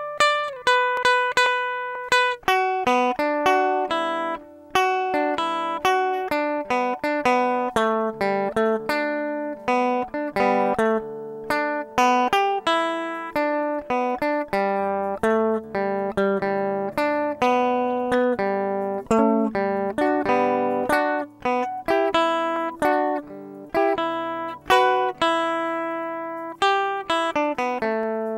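Guitar playing a melody of single plucked notes, one after another, over lower bass notes, each note struck sharply and ringing away.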